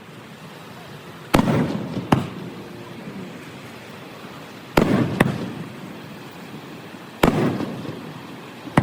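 Fireworks shells bursting overhead: sharp bangs, some in quick pairs, each followed by a rolling rumble.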